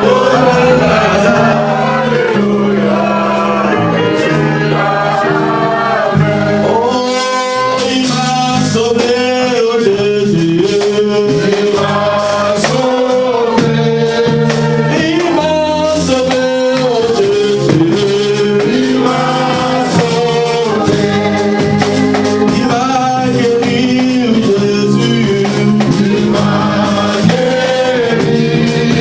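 Gospel praise song: sung vocal melody over steady instrumental accompaniment, with percussion coming in about seven seconds in.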